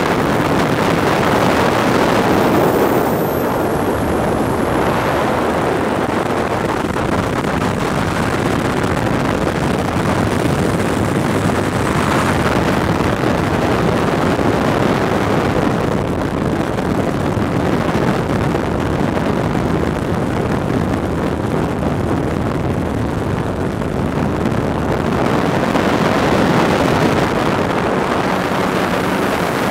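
Ultralight trike in flight: its engine running steadily under loud wind rushing over the microphone.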